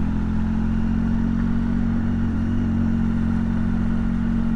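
Motorcycle engine running at a steady speed on the move, a low even drone that holds its pitch.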